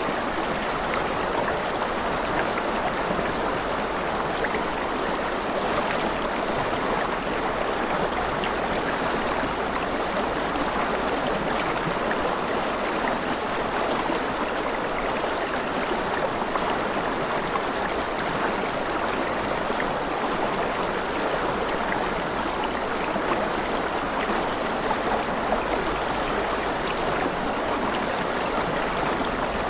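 A rushing river: water running steadily over stones, with a constant even rush.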